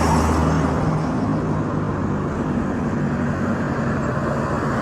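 A motor vehicle engine running steadily nearby with a low hum, over steady outdoor street noise.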